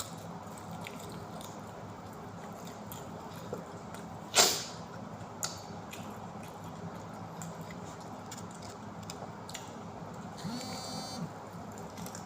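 Someone chewing food close to the microphone, with soft mouth clicks and one sharp loud crackle about four seconds in. A short buzzing tone sounds near the end.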